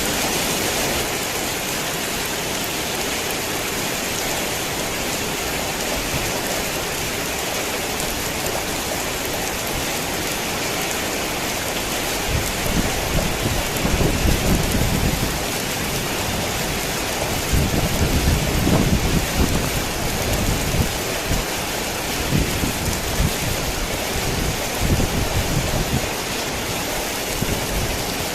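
Heavy rain falling steadily. From about halfway through, low thunder rumbles in several rolls under the rain.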